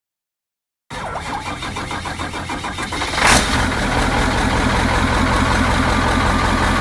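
Diesel truck engine cranking on the starter, with even pulses about five times a second, starting about a second in. It catches near three seconds with a loud burst, then settles into steady running at idle.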